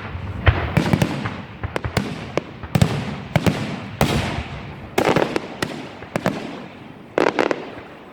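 Aerial fireworks exploding in quick succession: sharp booms every half second or so, each trailing off in crackle and echo.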